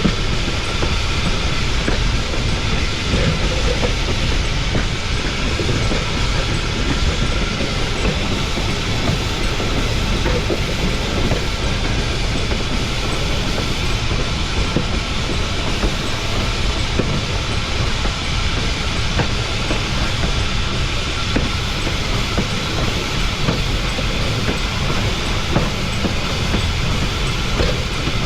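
Cumbres & Toltec narrow-gauge steam locomotive No. 488 running along the track, with steady rolling noise and wheels clattering on the rails.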